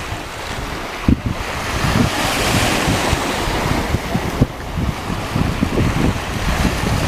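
Surf washing onto the shore, one wash swelling about two seconds in and fading a couple of seconds later, with wind buffeting the microphone.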